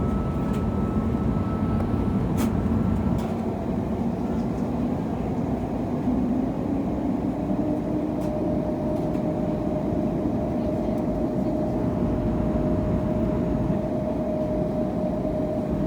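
Cabin noise of an Airbus A321neo with its Pratt & Whitney PW1100G geared turbofan engines running on the ground: a steady rumble and hum, with a steady tone that comes in about halfway through and a few faint clicks near the start.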